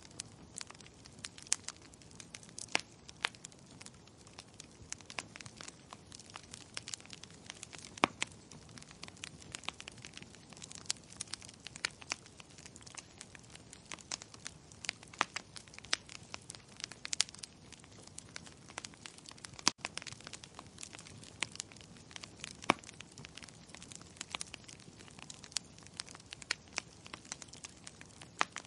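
Wood fire crackling and popping: frequent irregular sharp snaps over a low steady hiss of burning.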